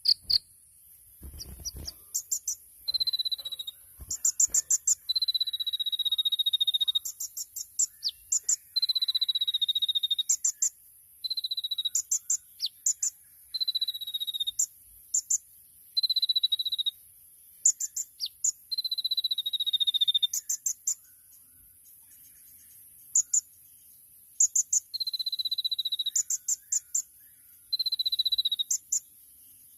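Purple-throated sunbird (kolibri ninja) singing: short, very high rapid trills alternating with long whistled notes that fall slightly in pitch, over a steady high hiss. The song pauses for about two seconds past the middle, then resumes.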